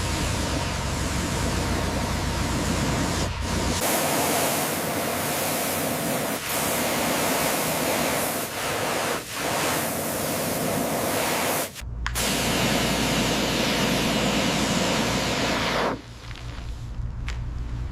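High-pressure water spray hissing steadily, as from a pressure washer blasting grime off a car body, with a low machine hum under parts of it. It comes in several cut-together stretches and drops back near the end.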